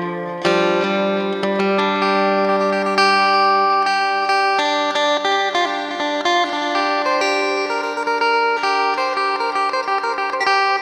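Electric phin, the Isan plucked lute, played as a quick plucked melody over a steady ringing drone note.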